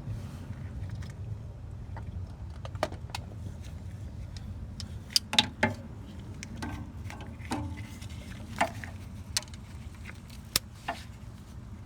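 Irregular metallic clicks and clinks of a socket and ratchet working on the axle's mounting bolts, over a low steady hum.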